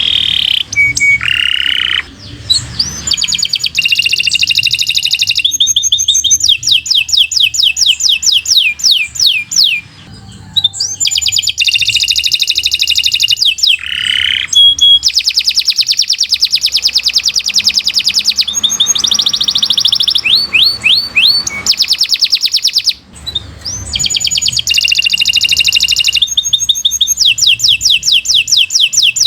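Domestic canary singing a long run of song: phrases of fast trills and rapidly repeated high notes, each lasting a few seconds, with two brief pauses.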